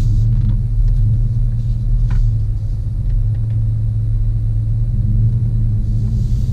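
A 2014 Chevy pickup truck running and driving, its steady low engine and road rumble heard from on board.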